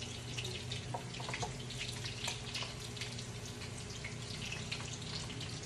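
Flour-coated shrimp frying in a skillet of hot grease: a steady sizzle full of irregular small crackles and pops, over a low steady hum.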